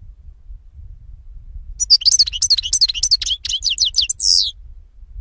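A pet songbird sings one quick phrase of high chirps sweeping downward in pitch, about ten notes in two and a half seconds, ending in a short buzzy note. The phrase starts about two seconds in.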